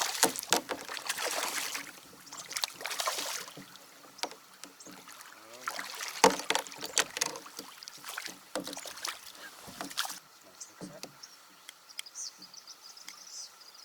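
Water splashing and knocks against a plastic fishing kayak's hull, coming in several bursts over the first ten seconds. It is quieter after that, with faint insect chirping near the end.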